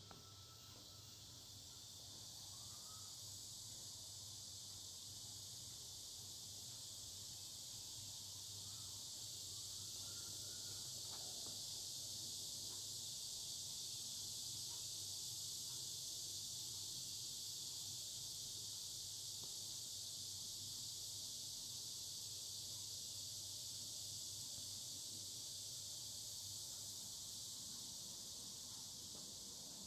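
Cicadas singing in chorus: a steady, high buzzing drone that swells over the first several seconds and then holds level.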